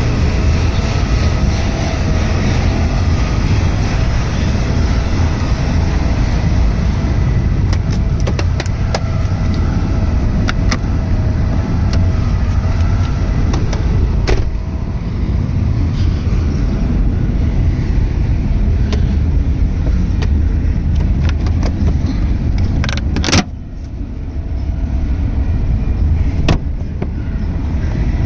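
Subaru SVX's 3.3-litre flat-six idling, a steady rumble with a faint wavering whine above it. Scattered clicks come through from about a third of the way in, and a sharp knock near the end is followed by a few seconds of quieter running.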